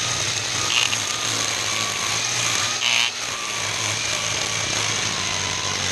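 ECHO 58-volt battery string trimmer running at a steady speed, its line cutting through tall weeds and grass, with a constant hum and a high motor whine. Two brief sharper bursts come about one and three seconds in.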